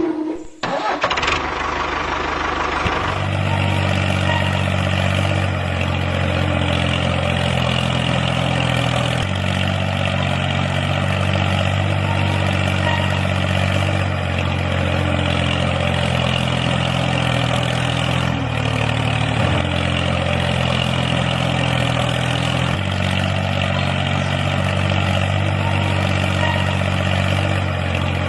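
An engine starting over the first few seconds, then running steadily at idle with a low, even throb whose pitch shifts slightly every few seconds.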